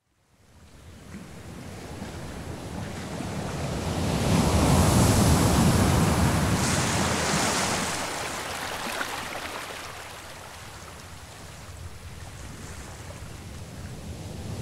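Ocean surf: the rush of a wave fading in, swelling to a peak, then ebbing away, with a smaller rise again near the end.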